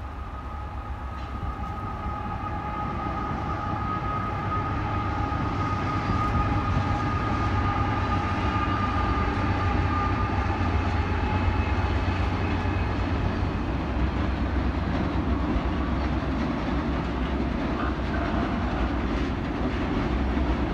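Diesel-hauled passenger train crossing a steel trestle: the locomotives' low rumble builds as they approach, with a steady high-pitched squeal that fades out about two thirds of the way in. Near the end comes the rolling clatter of passenger cars over the bridge.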